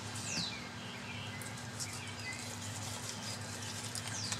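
Birds chirping: short repeated calls and two quick falling whistles, one just after the start and one near the end, over a steady low hum.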